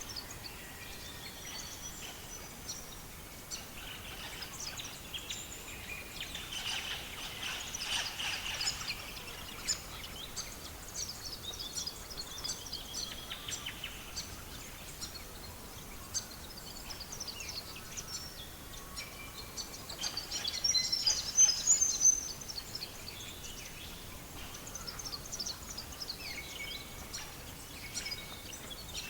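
Small birds chirping and singing over a steady faint background hiss, with a louder run of rapid chirps about twenty seconds in.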